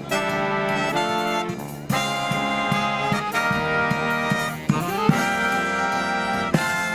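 A live marching brass band of trumpets, saxophones and trombones plays a bright, jazzy arrangement. Full sustained chords ride over short bass notes, with quick upward swoops in the horns about two thirds of the way through and again near the end.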